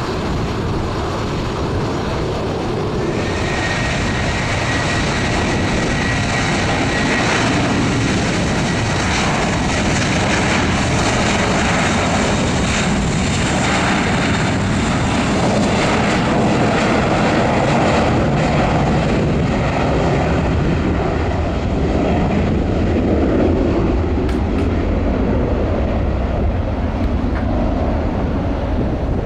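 Jet aircraft engines running loudly and steadily. A high whine comes in about three seconds in and fades out several seconds later.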